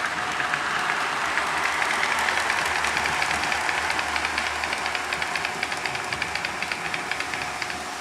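HO-scale model train, two GP35 diesel models pulling loaded ore cars, running along the layout track: a steady rushing run with a faint motor whine and rapid wheel clicking over the rail joints, which fades out shortly before the end as the train moves off.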